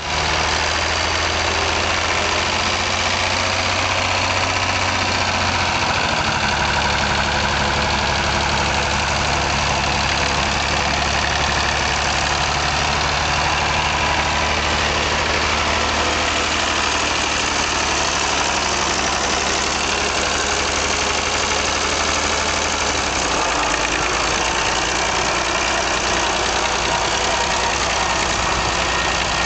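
Perkins P6 six-cylinder diesel engine of a Fordson E27N tractor running steadily as the tractor is driven. Its low engine note shifts about six seconds in and again near the end.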